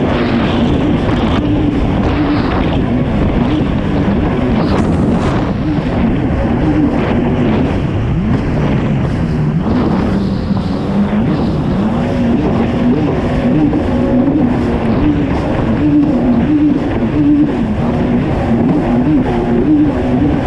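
Kawasaki STX-160 jet ski's four-stroke engine running hard at racing speed. Its pitch wavers up and down the whole time over a steady rushing noise.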